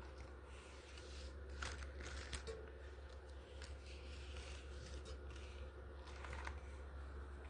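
Faint rustling and scattered light clicks of things being handled, over a steady low hum.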